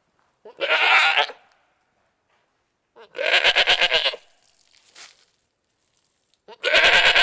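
Bleating from a sheep or goat: three loud, quavering bleats about a second long each, a couple of seconds apart. The last one is still going at the end.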